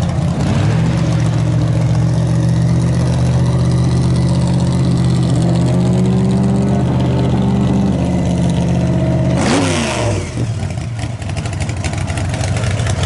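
A car engine running with a deep, steady rumble. About nine and a half seconds in, its pitch sweeps and a short burst of noise is heard, after which the rumble carries on a little weaker.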